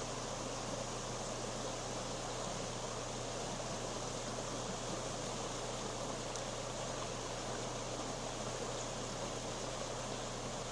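Steady rushing of a creek in flash flood, an even roar of fast-moving water with no distinct splashes.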